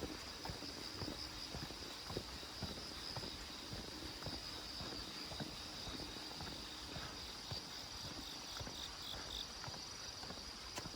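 Footsteps walking on a paved path, about two steps a second, under a steady high chorus of insects.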